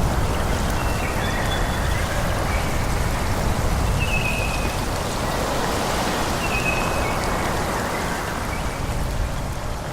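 Wind rushing steadily through forest trees, with a low rumble underneath. A few short, high bird chirps come and go throughout.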